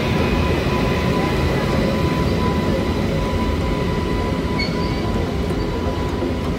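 Train running on the rails: a steady, loud rumble with a faint steady whine above it.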